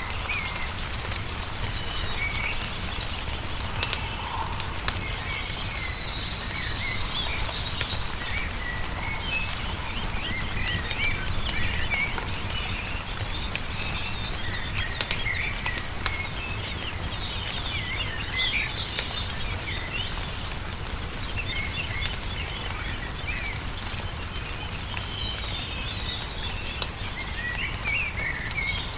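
Small songbirds chirping and twittering throughout, over a crackling wood fire with scattered sharp pops and a steady low rumble underneath.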